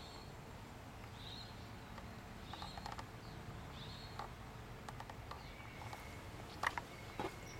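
Faint short chirps of birds every second or so, each dipping slightly in pitch, with a couple of sharp clicks near the end.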